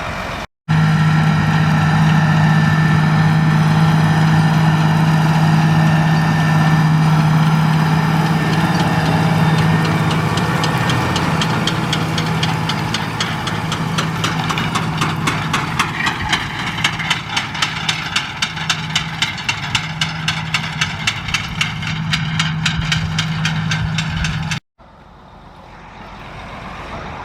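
A motor running steadily with an even hum, joined about halfway through by a fast, regular ticking of about four a second. The sound cuts in abruptly just after the start and cuts off sharply near the end.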